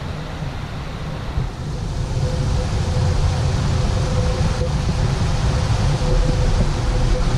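Wind buffeting the microphone: a steady low rumble with a hiss above it. A faint steady hum comes in about two seconds in.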